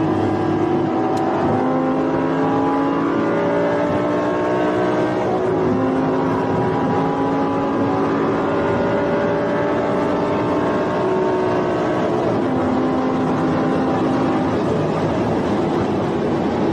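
Audi R8's engine heard from inside the cabin under hard acceleration, its pitch climbing steadily through each gear and dropping back at upshifts about five and twelve seconds in, over steady road and wind noise.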